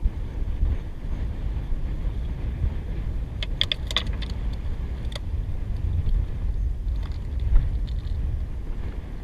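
Wind buffeting the microphone as a steady low rumble. A quick cluster of small clicks and clinks comes about three and a half seconds in, and another click follows a second later.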